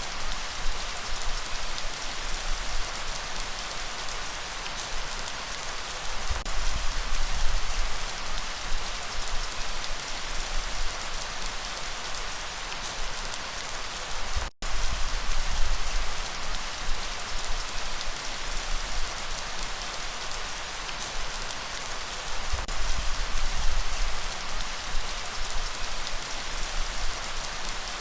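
Steady rainfall, an even hiss of drops hitting surfaces, with a low rumble underneath. The sound cuts out for an instant about halfway through.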